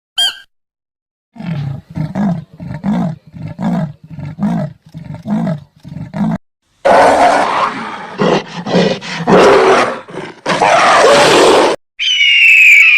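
A large animal roaring: a run of low rhythmic grunts, about two a second, builds into long loud roars. A short high squawking call cuts in near the end.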